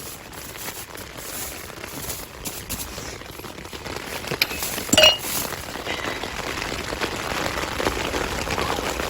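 Heavy rain and wind beating on a backpacking tent, growing louder in the second half, with one sharp clink about five seconds in.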